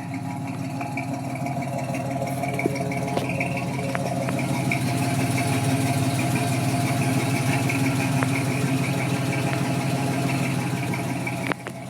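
1964 GMC's engine idling steadily through a new true dual exhaust with Flowmaster 40 mufflers, a nice crisp tone. It grows slightly louder in the middle and drops off suddenly near the end.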